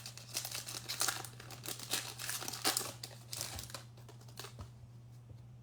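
Foil trading-card pack wrapper crinkling and tearing as it is opened and the cards handled, in irregular rustles that die down about four and a half seconds in.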